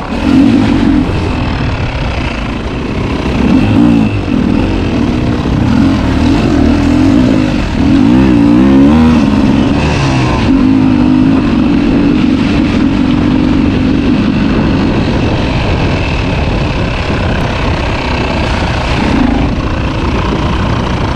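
Two-stroke dirt bike engine running hard off-road, its revs rising and falling again and again as the throttle is worked.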